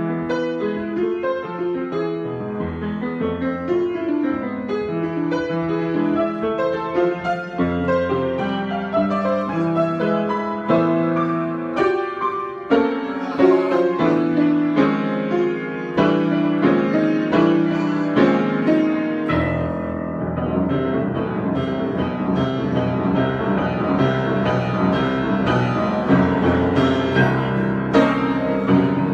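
Solo piano improvisation, played continuously with many overlapping sustained notes; a fuller, deeper bass comes in about two-thirds of the way through.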